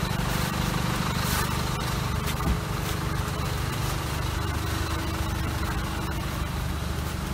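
Car cabin noise from a taxi waiting in a traffic jam: a steady low engine hum at idle, with one short knock about two and a half seconds in.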